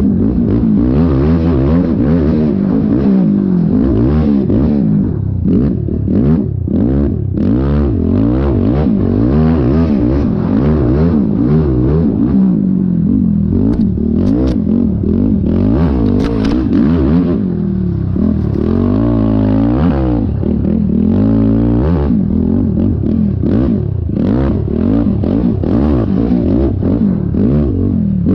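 Yamaha YFZ450R quad's single-cylinder four-stroke engine being ridden hard, its revs rising and falling every second or two with frequent short clattering knocks over rough ground.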